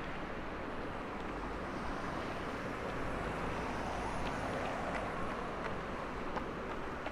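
Steady city traffic noise, a continuous wash of passing vehicles, with a few faint ticks.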